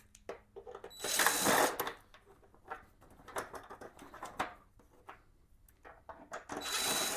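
Impact driver run in two short bursts, about a second in and near the end, spinning out screws that were already loosened with a ratchet, with small clicks and taps of the screws and tool between.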